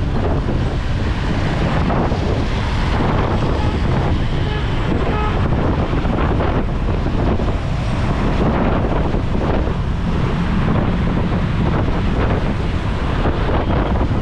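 Steady loud rush of wind buffeting the microphone of an action camera on a moving motorbike, covering the low rumble of the ride.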